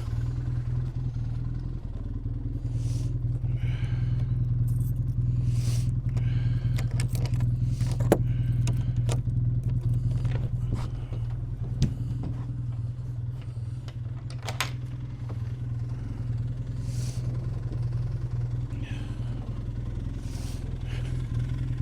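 Arctic Cat snowmobile engine idling steadily, with scattered clicks and clanks on top. The reverse gear won't engage, which the owner suspects is frozen.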